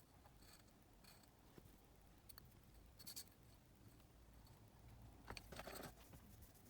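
Near silence, with a few faint scratching clicks of small handling noises about halfway through and again near the end.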